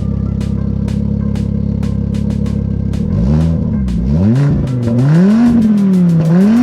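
2005 Volvo S40i's naturally aspirated 2.4-litre inline five-cylinder, its exhaust run without a rear muffler and with a hollowed front catalytic converter, idling steadily, then blipped about three seconds in and revved up and down about four times.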